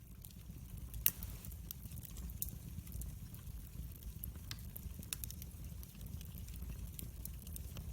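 Wood fire burning and crackling: a steady low rumble with irregular sharp pops and snaps, the loudest about a second in.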